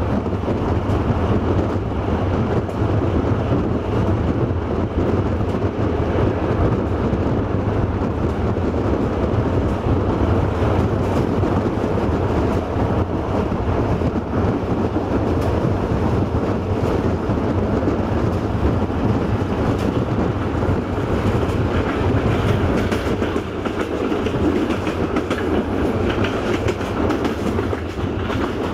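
Passenger train rolling along at steady speed: a constant rumble of steel wheels on the rails with faint clicks from the track.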